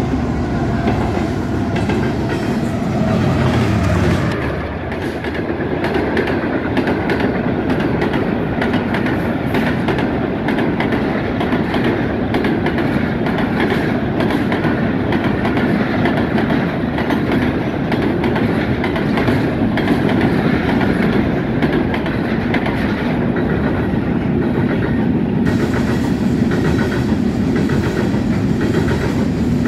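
Two trains passing each other on adjacent tracks: a GEU40 diesel-electric locomotive's engine rumbles by for the first four seconds or so, then a steady rumble and clickety-clack of wheels on rail joints as passenger coaches and empty coal hopper wagons roll past.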